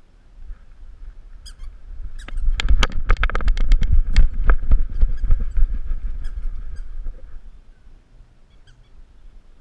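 Jostling noise from a GoPro on a dog's harness as the dog moves: a run of sharp clattering knocks and low thumps, starting about two seconds in and easing off after about seven seconds. A faint, steady, high squeak runs underneath.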